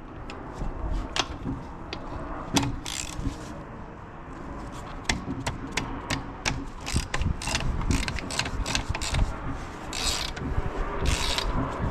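Hand ratchet wrench clicking in quick runs, with scattered metallic clinks, as a socket unscrews the oil pressure sensor from a motorcycle engine.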